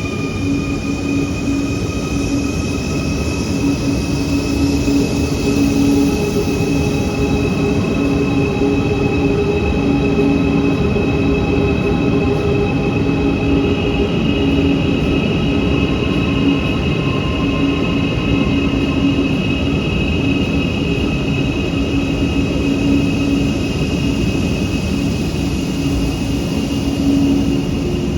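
Quito Metro train running at speed, a steady rumble of wheels on rail with a high electric whine that climbs slightly at first and then holds. A second, higher whine tone joins about halfway through.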